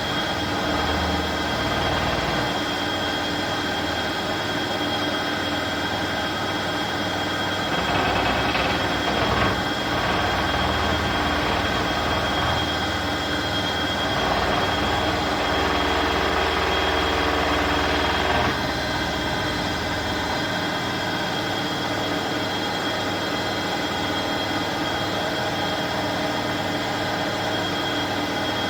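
Bosch Aqua Star washing machine running, with a steady mechanical hum and a thin high whine. It grows louder about a third of the way in, then drops suddenly about two thirds through.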